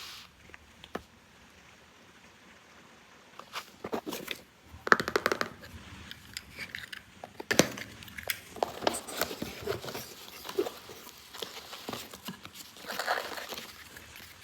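Toy packaging and small plastic toy pieces being handled: crinkling plastic with irregular light clicks and taps, starting a few seconds in after a quiet stretch.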